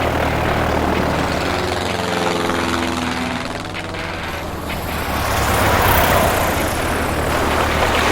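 Propeller aircraft engine droning steadily: a low engine hum under a rush of noise, with its pitch swaying about two to three seconds in.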